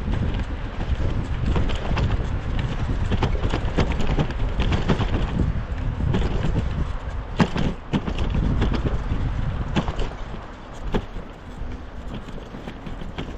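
Wind buffeting the microphone of a bicycle ride through snow, with irregular clicks, knocks and crunches from the bike and its tyres rolling over snow.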